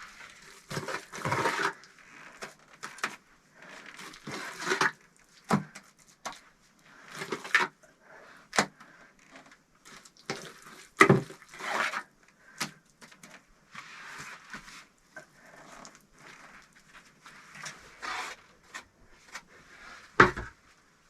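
Bricklaying with clay mortar for a brick stove: repeated short scraping of mortar being worked, and several sharp knocks as bricks are set and tapped into place, the loudest near the end.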